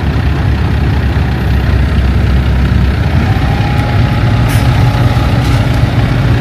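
Heavy diesel engine running steadily under load; about three seconds in its pitch rises as it picks up speed, with a faint whine joining it.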